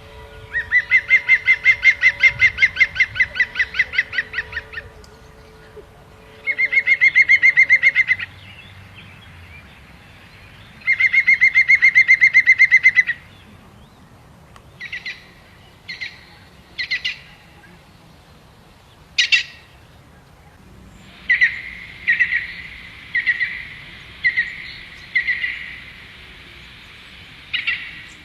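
A bird calling in rapid, loud trills, three long runs of about ten notes a second, followed by short single calls and then a quicker series of chirps near the end.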